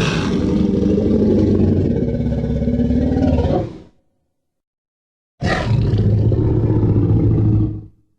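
Tyrannosaurus rex roar sound effect, heard twice: a roar of about four seconds, then after a second and a half of silence a shorter roar of about two and a half seconds.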